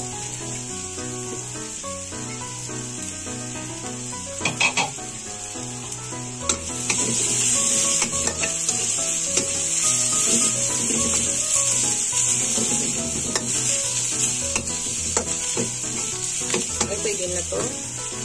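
Chopped onion and garlic sizzling in hot oil in a wok while a spatula stirs them, knocking and scraping against the pan now and then. The sizzle gets louder about six or seven seconds in.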